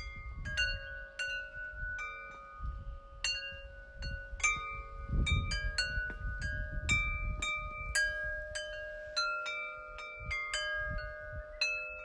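Bell-like chiming tones struck at irregular moments over a few fixed pitches, ringing on, with a gusty low rumble beneath.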